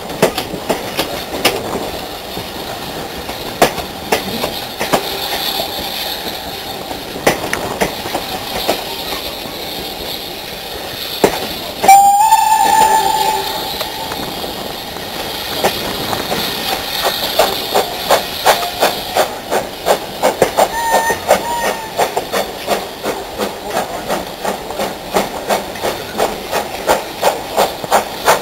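Steam-hauled train running past, its wheels clicking over rail joints in a quickening rhythm. About twelve seconds in, a loud steam whistle blows for a second or two, followed by fainter short whistle notes later on.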